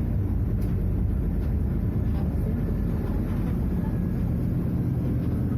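Scania F250HB bus's DC09 five-cylinder diesel engine running steadily.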